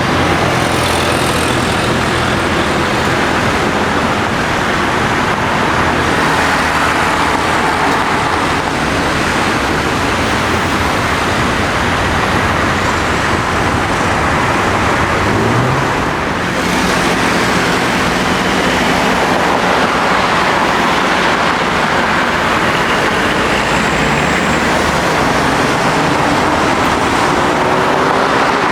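Jet airliner engines, an Airbus A319's, running loud and steady: a dense rush of noise with faint shifting engine tones.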